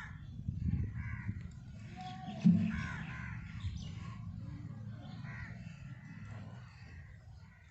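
Crows cawing repeatedly over a low rumble, with a single knock about two and a half seconds in.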